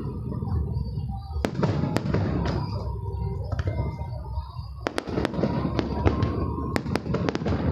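Aerial display fireworks going off: a string of sharp bangs, several close together around the middle and near the end, over a continuous low rumble of booms.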